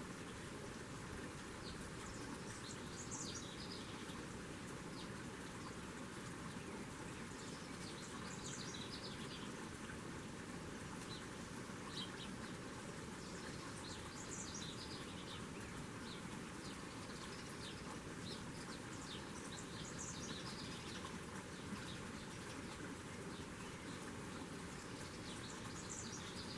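Small birds chirping in short high bursts, a cluster every five or six seconds, over a steady background hiss.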